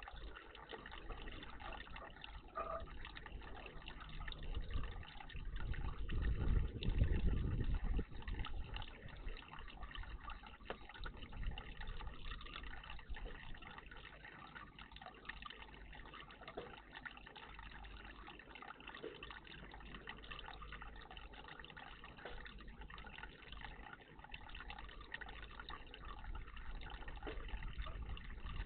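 Water trickling and splashing at a garden bird bath, a steady watery hiss with small scattered ticks. A louder low rumble swells and fades a few seconds in.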